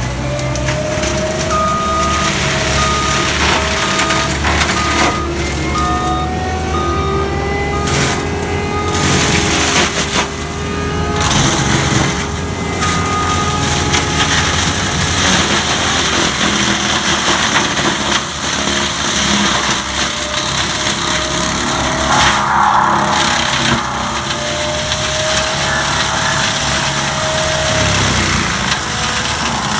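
ASV RT120F compact track loader with a Gyro-Trac forestry mulching head running hard, its engine and spinning mulcher drum a loud steady din with pitch wandering slightly under load. An intermittent high beep sounds through the first half.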